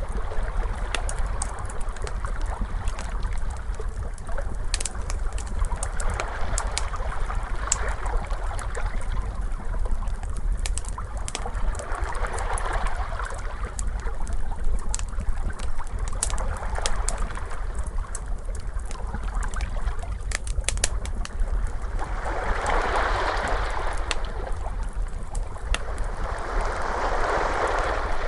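Ocean waves washing in slow swells every few seconds, the strongest near the end, mixed with the sharp pops and crackles of a wood fire over a steady low rumble.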